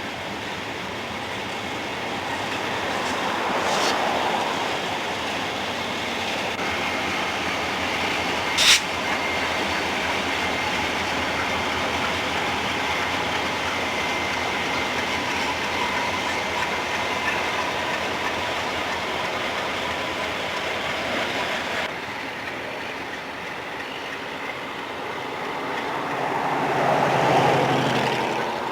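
A train rolling past, its steel wheels running on the rails, with one sharp crack about nine seconds in.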